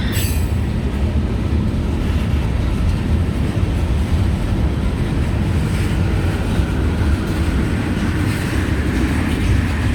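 CSX freight train's railcars rolling past with a steady heavy rumble of wheels on rail, a sharp clank right at the start and a faint wheel squeal later on.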